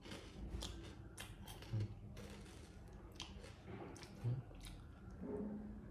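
Monkey crunching and chewing packaged potato chips: a run of small sharp crackles, with two dull knocks, about 2 s and 4.5 s in, that are the loudest sounds.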